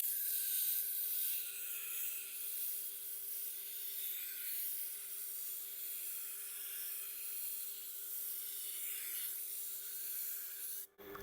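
Steel chef's-knife edge being ground on a Tormek T8 sharpening wheel at 320 grit, a steady high hiss over a faint hum from the machine. The sound cuts off suddenly near the end.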